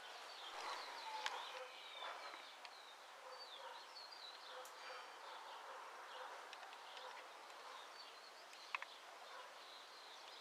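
Faint outdoor background of small birds chirping repeatedly in quick short notes over a low steady hiss, with one short click near the end.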